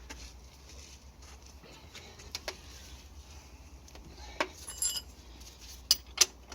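Metal hand tools and parts clinking and knocking in a few separate sharp clinks, one with a brief metallic ring about two-thirds of the way through. The loudest two clinks come close together near the end.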